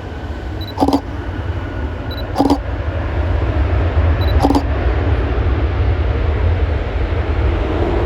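Aircraft engine noise growing steadily louder, over a heavy low rumble. A short, sharp click repeats about every two seconds during the first half.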